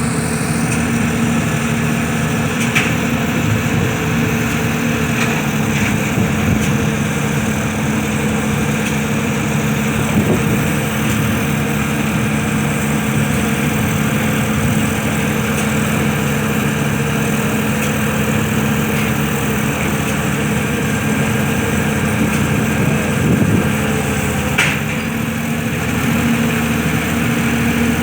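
Engine of a pile-driving hammer rig running steadily at an even speed.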